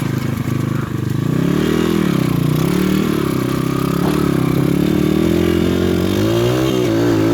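PitPro 140cc pit bike's single-cylinder four-stroke engine being ridden, revving up and down with the throttle over rough ground, with a few quick blips of the throttle near the end.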